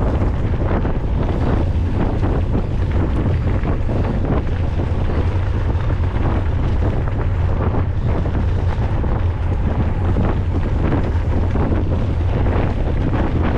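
Wind buffeting a camera's microphone on a moving mountain bike, a steady low rumble, with frequent small knocks and rattles from the bike riding over rough trail.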